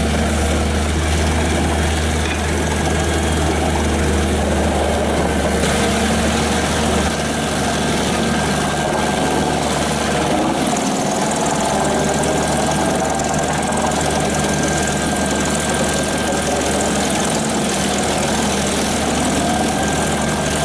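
Large industrial wood chipper running, its diesel engine and chipping drum making a loud, steady machine noise. The deepest part of the hum eases about seven seconds in.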